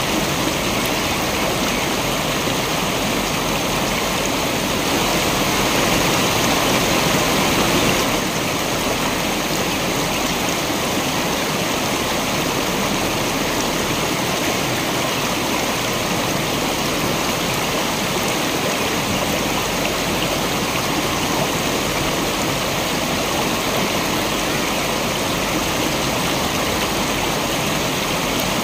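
Waterfall water rushing in a steady, dense hiss, swelling slightly for a few seconds about five seconds in.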